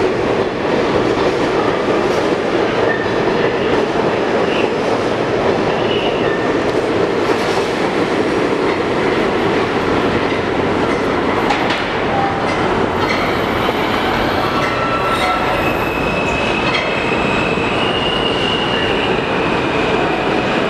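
R46 subway train running on the track: a loud, steady rumble of wheels on rails, with thin, high wheel squeals joining in from about two-thirds of the way through.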